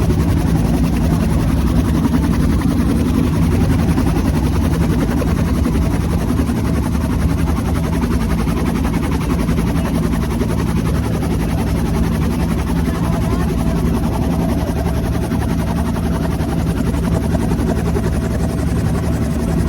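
Bell UH-1 Huey helicopter in flight: its turbine engine and rotor make a loud, steady drone, and a faint steady whine joins it about two-thirds of the way through.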